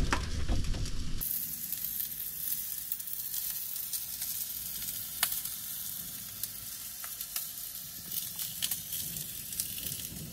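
Sausages and black pudding sizzling in a Ridgemonkey pan on a portable gas camping stove: a steady frying hiss with scattered pops and crackles of fat. A few light knocks in the first second.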